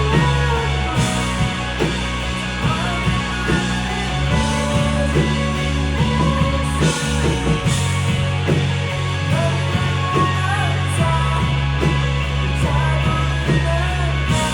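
Live rock band playing: electric guitar over bass and drums, with singing at times.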